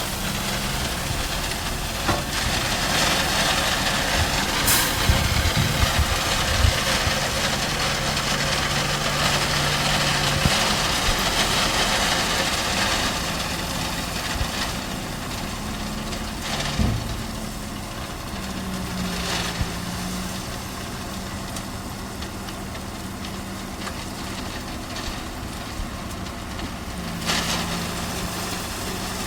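Heavy construction machine's diesel engine running steadily, its pitch stepping up and down now and then, with a few sharp metallic knocks.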